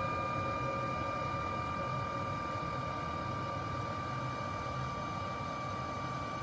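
Carrier ultra-low-NOx gas furnace running just after ignition: a steady rushing hum with a steady high-pitched whine over it.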